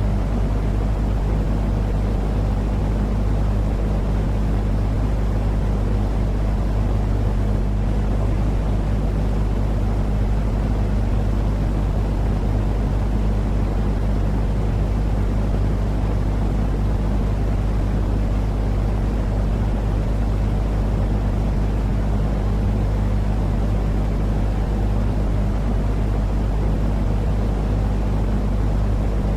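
Steady, unchanging deep rumbling noise with a low hum in it, heaviest in the bass: a continuous sleep-noise track of the kind played to soothe crying, colicky babies.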